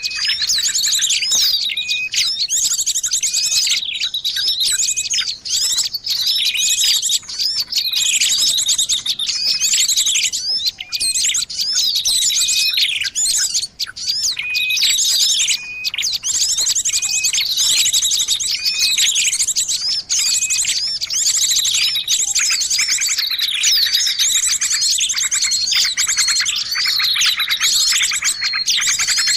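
Dense, busy chorus of many small birds chirping and trilling over one another without pause: a 'ribut' bird-lure recording made to draw in all kinds of birds.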